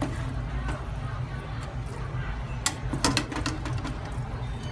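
Blended chili paste sizzling in hot oil in a wok, over a steady low hum, with a few sharp clicks about three seconds in.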